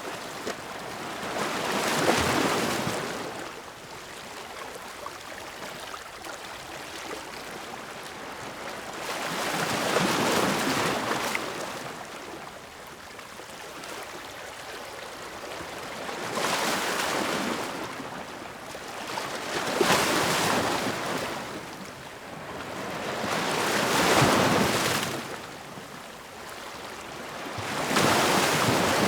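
Ocean waves breaking and washing in: a steady hiss of surf that swells up and fades away again, six times, every four to eight seconds.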